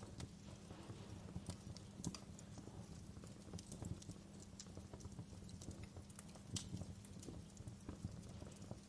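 Wood fire burning in a fireplace: a low steady rumble of flames with irregular crackles and pops, a sharper pop about two seconds in and another near two-thirds of the way through.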